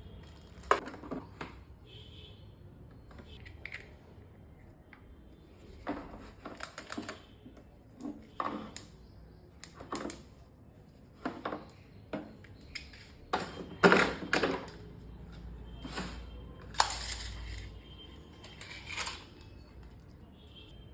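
Hard tools and parts from a tool kit being handled and set down, making irregular clicks, clinks and knocks, with the loudest knock about two-thirds of the way through.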